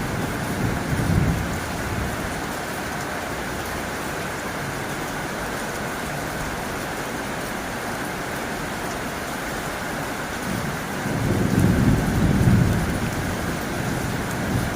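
Heavy rain drumming steadily on a tin roof. A low rumble swells near the start and again late on.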